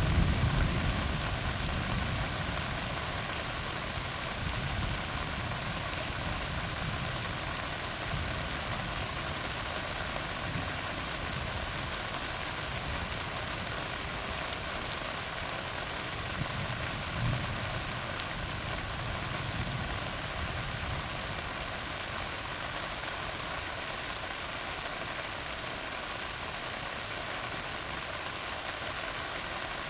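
Steady rain falling on a tar road, an even hiss of drops on the asphalt. A low thunder rumble dies away in the first couple of seconds.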